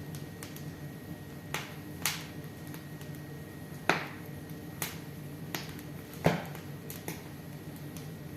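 Wood fire crackling in a fireplace: sharp, irregular pops and snaps, the loudest about four and six seconds in, over a steady low hum.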